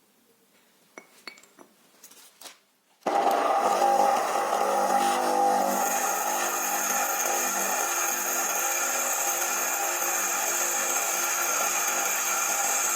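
A few light clicks of metal parts being handled, then about three seconds in an electric power tool starts suddenly and runs steadily at speed with a high whine, as used to strip rust off the old hand drill's parts.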